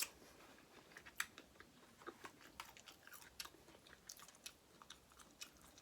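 Quiet close-up chewing of seafood-boil food: a string of irregular soft wet mouth clicks and smacks.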